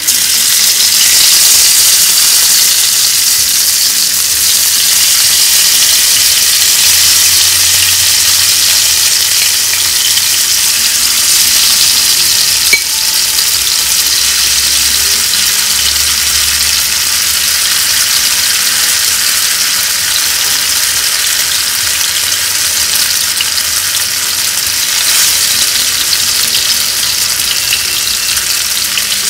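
Marinated soya chaap pieces sizzling in hot oil in a nonstick pan, a loud steady frying hiss that jumps up just after the start as more pieces go in. One brief tap stands out about 13 seconds in.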